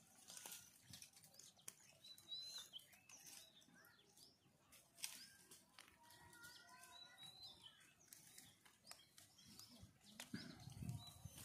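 Near silence: faint birds chirping now and then in the background, with a few soft clicks, the sharpest about five seconds in.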